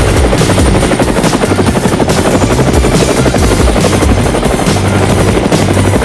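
Helicopter rotor sound, a fast steady chop of the blades, mixed with electronic backing music with a shifting bass line.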